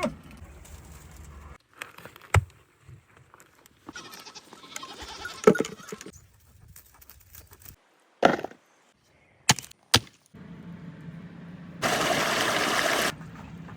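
Short cut-together outdoor clips with a few sharp knocks, animals bleating, and a loud steady rushing noise for about a second near the end.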